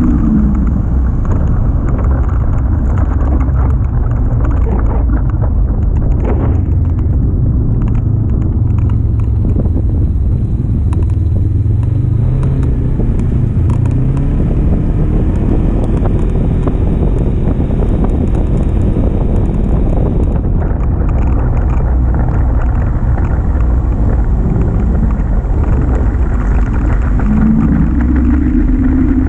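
Polaris RZR Highlifter 1000 side-by-side engine running under load, a loud steady rumble, with the revs climbing and dropping back near the start and again near the end.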